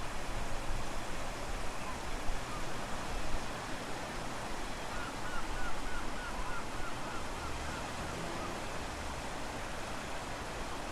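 Wind rumbling on the microphone over steady ocean surf. About halfway through, a quick run of about ten short high chirps.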